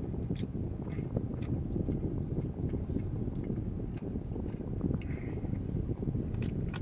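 Wind-noise rumble from an air-conditioner vent blowing straight onto the camera microphone, steady throughout, with a few faint clicks over it.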